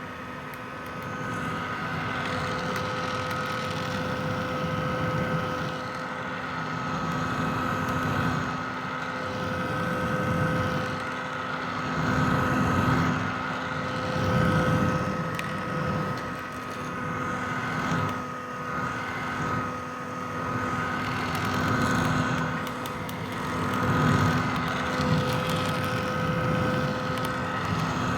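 Vintage hair dryer running continuously: a steady motor whine over the rush of blown air, the loudness swelling and easing every couple of seconds.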